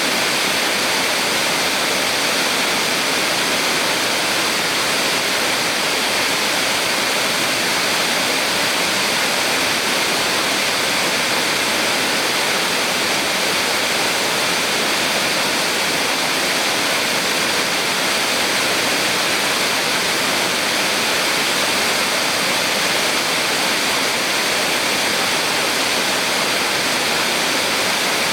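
A small waterfall on a mountain stream: water pouring and splashing in a steady, unbroken rush.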